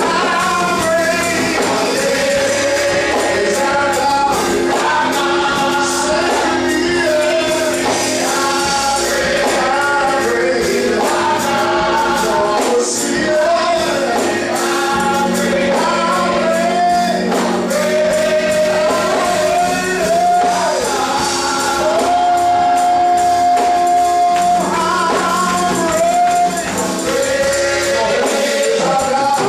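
Gospel choir singing over held accompanying chords, with a tambourine jingling along.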